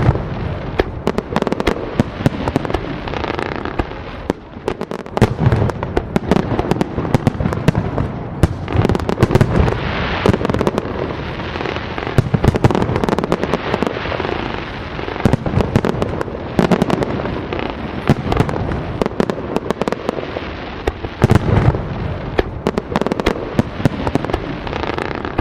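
Fireworks display: a dense, continuous barrage of booming shell bursts and sharp crackling reports, many per second.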